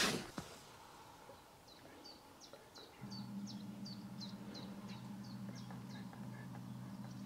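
A small bird repeating a short, high chirp about three times a second, stopping about a second before the end. A steady low hum comes in suddenly about three seconds in.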